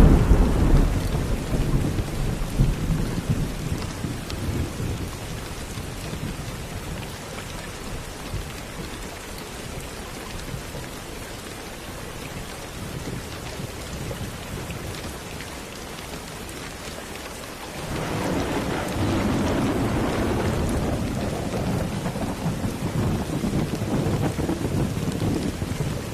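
Steady rain with rolling thunder. A loud, low thunderclap right at the start rumbles away over several seconds, and another long roll of thunder builds about two thirds of the way through and rumbles on to the end.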